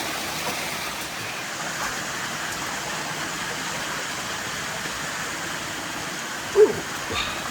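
Steady rushing water. About six and a half seconds in, a short call falls steeply in pitch.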